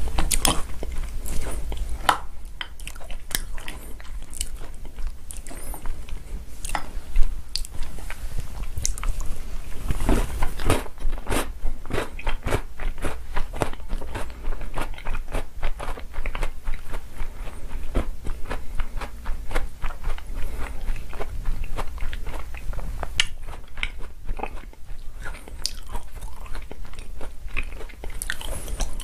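Close-miked chewing and crunching of chocolate cookies softened in chocolate milk, many small crisp crunches throughout, with one sharper crunch about seven seconds in.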